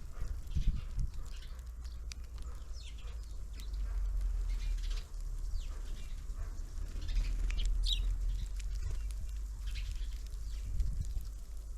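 Small birds at a winter feeder: scattered short high chirps and wing flutters, over a steady low rumble.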